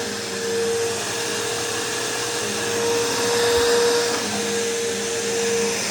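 Bissell PowerForce Bagless upright vacuum running steadily: a motor hum over rushing air. It gets a little louder about three to four seconds in.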